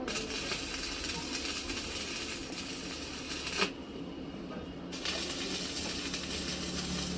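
Electric arc welding: a steady crackling sizzle, broken off by a sharp click after about three and a half seconds and starting again about a second later.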